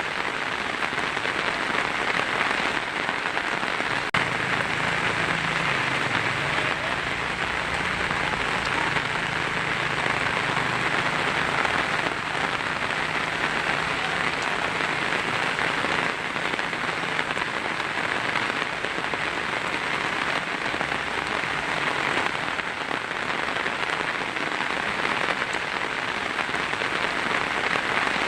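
Heavy rain drumming steadily on a tin roof, a dense even downpour with no letup.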